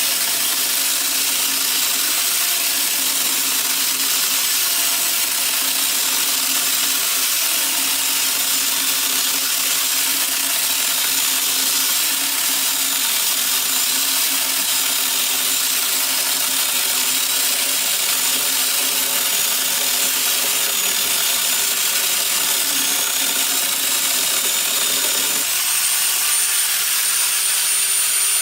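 Power tool running steadily, a loud hiss with a high, slightly wavering whine; the sound changes abruptly about 25 seconds in, its lower tones dropping away and a steadier high whine taking over.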